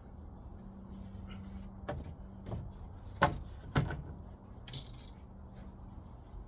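Several irregular knocks and clunks as the heat pump's roof cover is handled, the loudest two a little over three seconds in, with a short hiss near five seconds, over a steady low hum.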